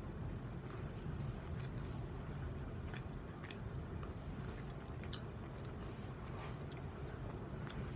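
A person chewing red Twizzlers licorice with small wet mouth clicks now and then, over a steady low rumble.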